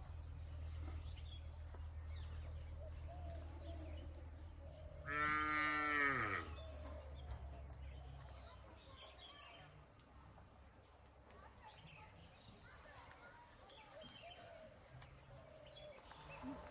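A cow mooing once, a call of a little over a second that drops in pitch at the end.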